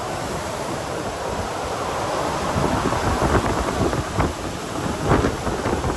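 Strong gusting wind buffeting the phone's microphone, a deep rushing roar that swells in gusts about three and five seconds in.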